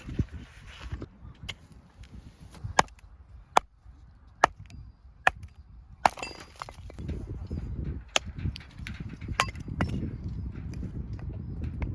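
A run of sharp cracks: four evenly spaced, a little under a second apart, then two more later, over a steady rustling noise.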